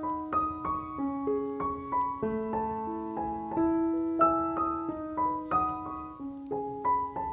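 Background piano music: a gentle melody of separate held notes, a few per second, with a low note sustained under each phrase.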